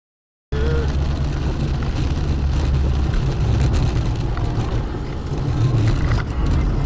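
A car driving: a steady low road-and-engine rumble that starts after about half a second of silence.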